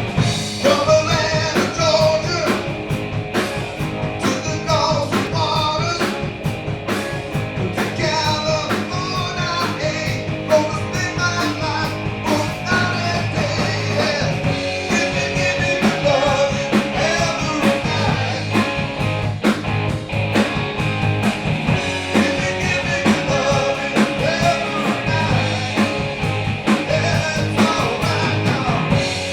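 A live rock-and-roll band playing, with electric guitar and a steady drum beat and a singer's voice over them.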